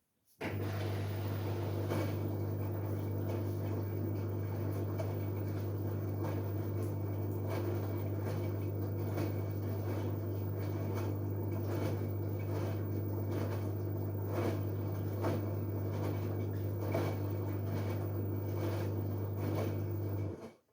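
LG Direct Drive washing machine running a steady hum with a strong low tone and faint irregular clicks. It cuts in abruptly just after the start and cuts off abruptly near the end, about twenty seconds later.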